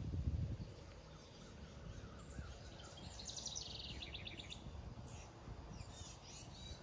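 Songbirds chirping, with a rapid high trill of quickly repeated notes about three seconds in and a few short chirps near the end. A brief low rumble at the very start is the loudest sound.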